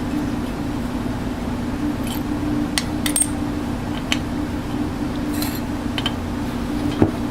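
A steady mechanical hum with a few light metallic clinks and taps scattered through, and one sharper knock near the end.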